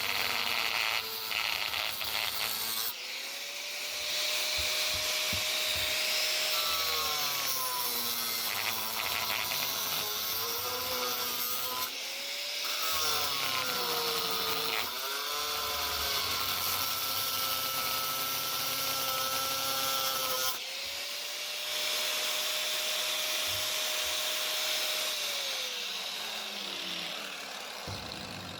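Power tool running with a harsh cutting or grinding hiss, its motor tone sagging and recovering several times as it is pressed into the work, then winding down near the end.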